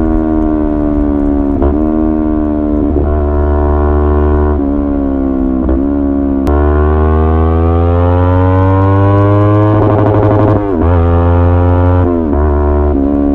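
Hero Xpulse 200 4V single-cylinder engine under way, its pitch easing down and climbing with the throttle. It is broken by short dips every second or two, like gear changes, with a long steady rise about halfway through.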